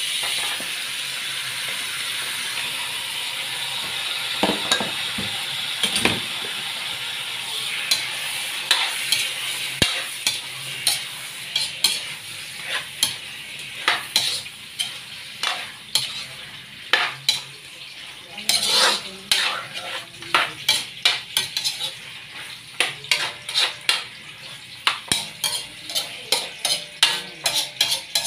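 Raw chicken pieces sizzling in hot oil in a wok, the sizzle strongest at first and then settling. A metal spatula scrapes and clanks against the wok in repeated stirring strokes, quickening to about two a second near the end.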